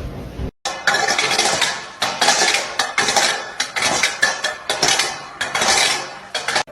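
Irregular clattering and rattling of hard objects in repeated bursts.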